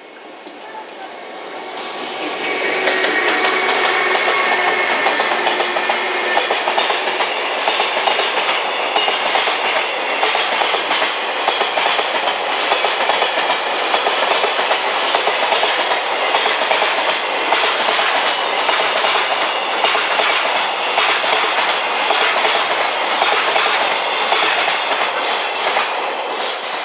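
JR Freight EF510 electric locomotive and its freight wagons passing at speed: the sound builds over the first two seconds as the train arrives, then holds as a loud, steady rush of wheels clattering over the rail joints.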